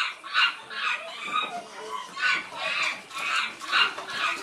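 Rapid chattering animal calls: short high calls repeating two or three times a second.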